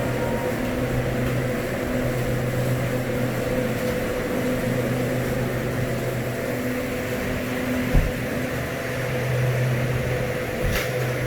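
Refrigeration unit running with a steady low hum. A single knock about eight seconds in and a short click near the end.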